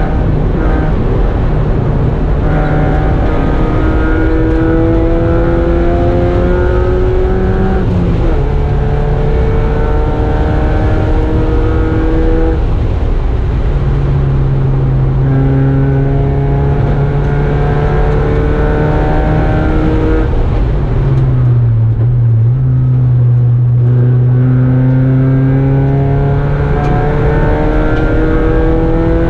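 Mazda Miata race car's four-cylinder engine under hard acceleration, heard inside the stripped, caged cabin: its pitch climbs steadily, drops with an upshift about eight seconds in and climbs again. It then holds fairly even for several seconds, eases off briefly a little past the two-thirds mark, and pulls back up toward the end.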